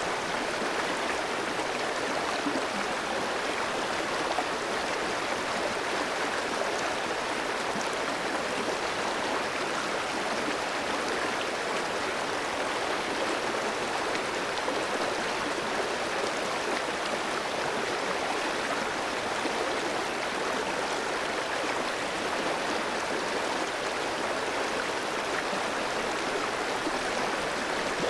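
Clear stream flowing over rocks: a steady, even rush and babble of water with no breaks.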